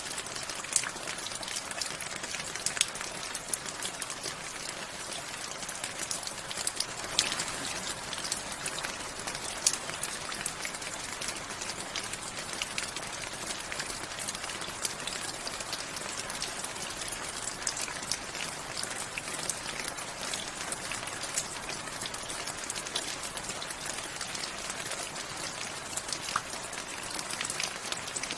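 Steady rain with a constant hiss and many individual drops ticking sharply on a hard surface at irregular moments.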